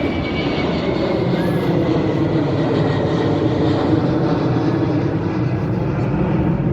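Jet airliner taking off, its engines at takeoff thrust: a loud, steady rumble with a faint whine that slowly falls in pitch.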